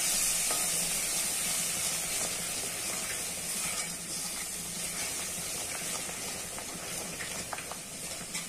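Thick masala gravy sizzling steadily in a kadhai as it is sautéed (the bhuna stage), a steel spoon stirring and scraping through it, with a few light clicks of the spoon on the pan near the end.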